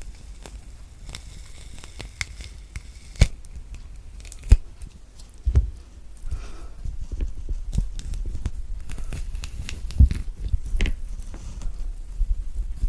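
Thick orange peel being torn and pulled away from the fruit by hand, close-miked, with crackling rips and a few sharp snaps.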